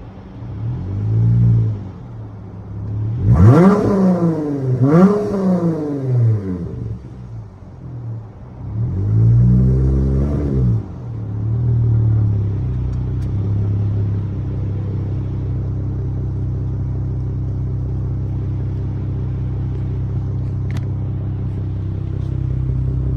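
Dodge Charger SXT V6 exhaust through Flowmaster Outlaw mufflers being revved in quick blips: two sharp revs about three and five seconds in, another a few seconds later. It then settles into a steady idle for the rest of the time.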